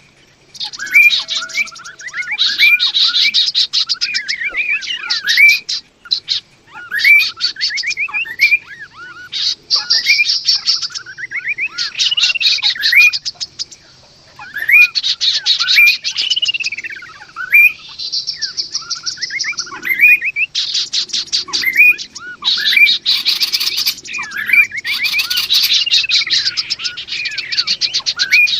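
Male and female kaso-kaso birds calling: phrases of slurred whistles that swoop up and down, run together with fast chattering trills. Each phrase lasts a couple of seconds, with short pauses between them.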